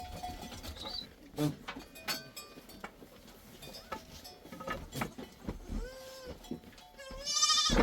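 Sheep and goats of a herd bleating: a few short calls past the middle, then a loud, quavering bleat near the end.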